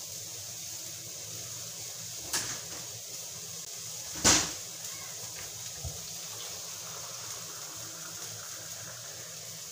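Sautéed aromatics and a bundle of lemongrass sizzling steadily in oil in a frying pan, with two sharp knocks about two and four seconds in, the second louder.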